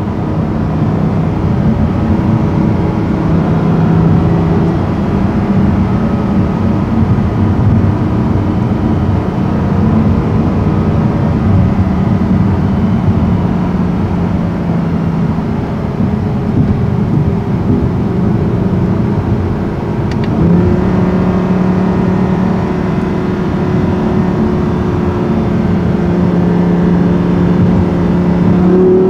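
Audi R8's 5.2-litre V10 engine heard from inside the cabin, with road noise, cruising at fairly steady, moderate revs with small changes in pitch. The engine note steps up about two-thirds of the way through and starts to climb at the very end.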